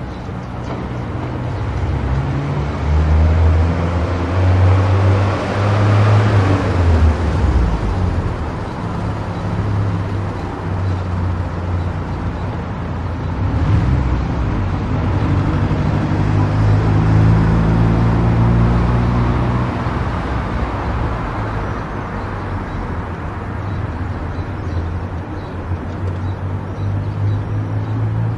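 Car driving on an expressway: a steady engine drone with tyre and road noise. The drone shifts in pitch now and then, and the noise swells louder twice, about five seconds in and again around seventeen seconds.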